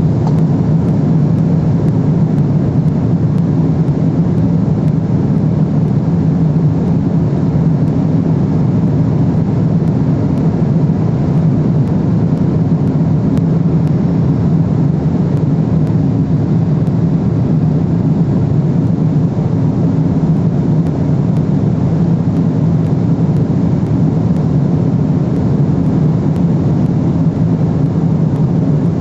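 Steady in-flight drone of a Boeing 777-300ER airliner in cruise, the noise of its twin GE90 engines and the airflow over the fuselage as heard from inside the cabin. A constant low hum with no change in pitch or level.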